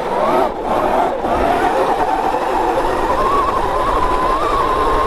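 Sotion FW01 electric motor on a Sur Ron electric bike whining under hard acceleration. Its pitch climbs, dips briefly about half a second in, then rises again and holds high, over a low rush of wind noise.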